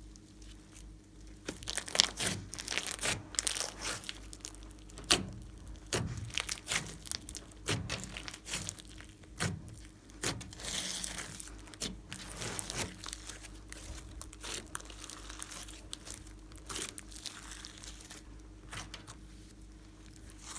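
Slime being squeezed, stretched and folded by hand, making irregular sticky crackles, clicks and pops, busiest in the first half.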